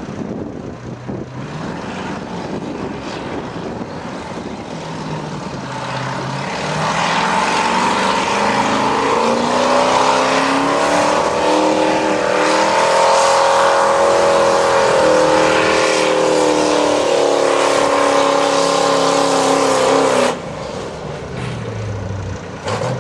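Modified 4x4 pulling truck's engine at full throttle down the track: the pitch climbs over a few seconds, holds high and loud for about twelve seconds, then cuts off suddenly near the end.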